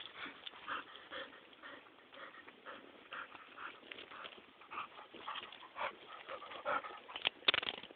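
Dog making many short, high vocal sounds during rough play with goats, with a few sharp knocks near the end.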